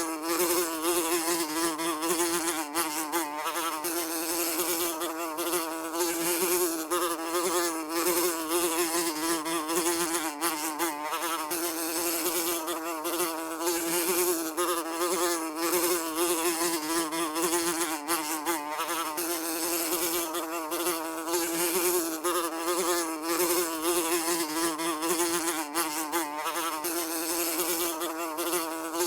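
A housefly buzzing continuously, a steady drone with a slight waver in pitch.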